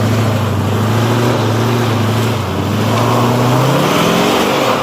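Pickup truck engine running under throttle, its pitch climbing a little a few seconds in and dropping off at the very end.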